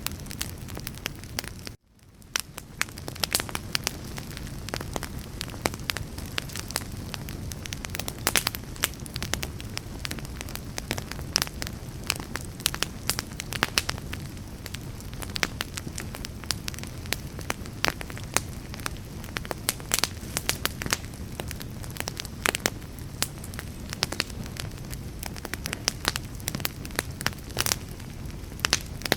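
Wood fire crackling steadily, with many sharp snaps over a low rumble of burning. About two seconds in the sound cuts out for a moment and fades back up.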